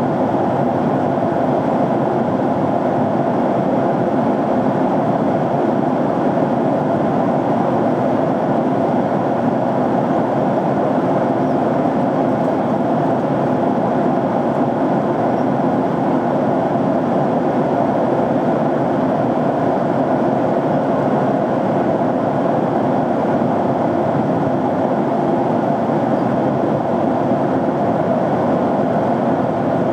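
Jet airliner cabin noise in flight: the engines and the air rushing past the fuselage, heard from inside the passenger cabin as a steady, unchanging noise.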